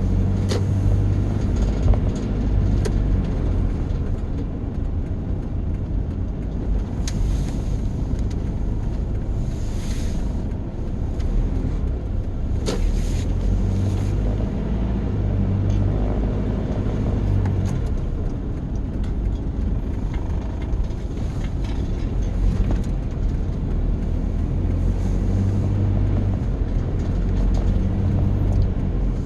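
Car driving, heard from inside the cabin: a steady low engine and road rumble that swells and eases slightly, with a few light clicks.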